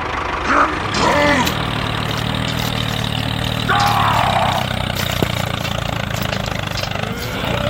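Small engine of a DIY mini tractor running steadily at a constant pace.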